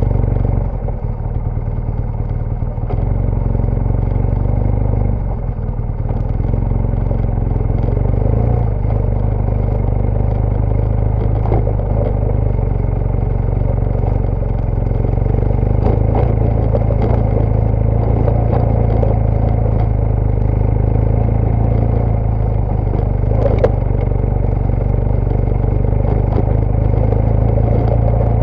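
BMW GS Adventure motorcycle engine running steadily under way off road, with scattered clatters and knocks from the bike over rough ground.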